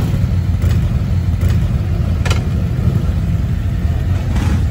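Motorcycle engine running steadily with a low rumble, with a few short ticks over it.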